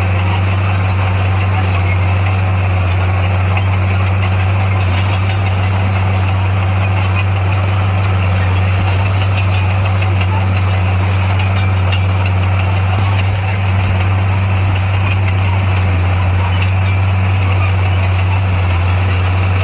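Heavy construction machine's diesel engine running steadily with a deep, even drone.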